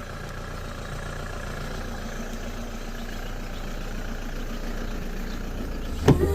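Steady low engine hum that slowly grows louder. Music comes in near the end.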